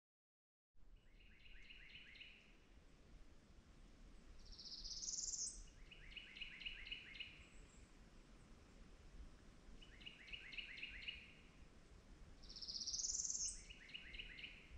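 Songbirds singing in a spring forest, starting about a second in. One bird repeats a short phrase of a few quick notes four times, about every four seconds. Another sings a rising buzzy song twice, the loudest sound, about five and thirteen seconds in, over a faint steady background hiss.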